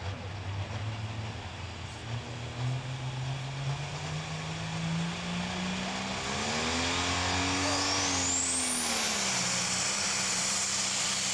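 Turbocharged diesel International super stock pulling tractor engine revving up under load, its pitch climbing over several seconds, then rising and dipping as it gets louder about six seconds in. A high turbocharger whine sweeps sharply upward about eight seconds in.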